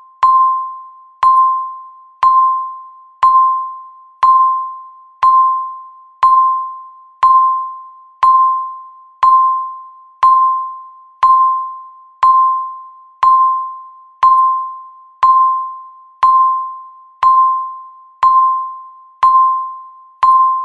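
Countdown timer beeping once every second, marking off the final seconds to zero. Each beep is a clear, fairly high electronic tone that starts sharply and fades away before the next one.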